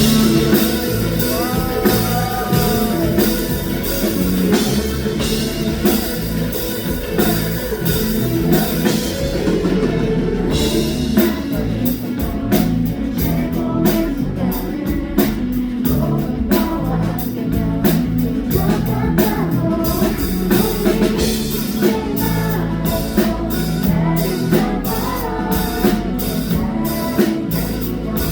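Live rock band playing: electric guitars and bass with a drum kit, the drums hitting hard and steady from about ten seconds in.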